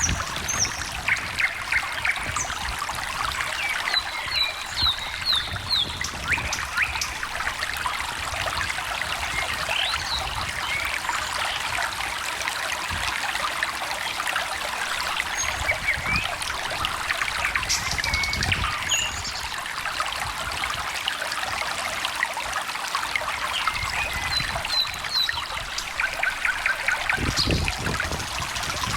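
A small stream trickling and babbling steadily, with birds chirping over it: short high chirps and quick runs of notes come and go throughout.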